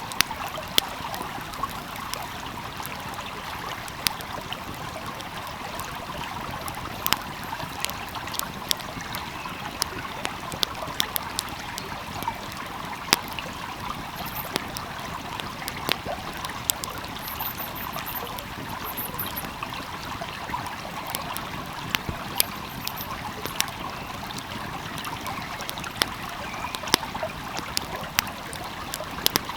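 Wood fire crackling, with sharp pops at irregular intervals, over the steady rush of a small flowing stream.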